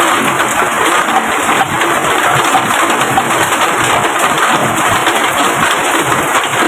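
Heavy rain falling steadily, a loud, even hiss with no breaks.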